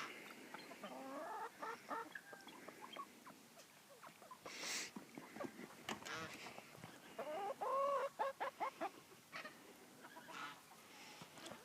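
Chickens clucking in short scattered calls, with a louder run of calls late on and a brief scratchy rustle in the middle.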